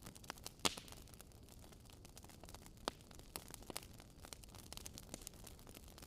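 Fireplace fire crackling: many small sharp snaps and pops over a soft steady hiss. The loudest pop comes just under a second in, and another clear one near three seconds.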